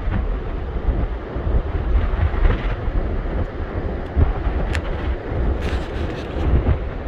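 Strong wind buffeting the microphone, a gusting low rumble, with a few faint ticks about five to six seconds in.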